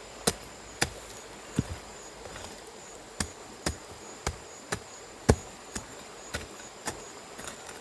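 A small hand hoe chopping into the ground, about a dozen sharp strikes at roughly half-second intervals, as the ground is dug and levelled.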